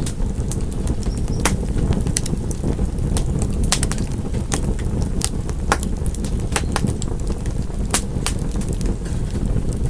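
Wood fire burning: a steady low rumble with sharp, irregular crackles and pops from the burning logs.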